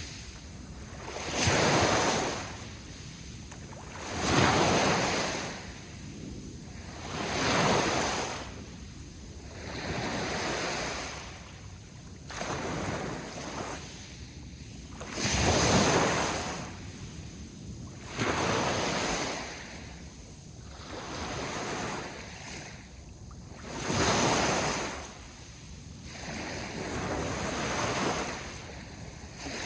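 Sea waves breaking and washing in, one surge every two to three seconds, each swelling and fading over a steady background wash.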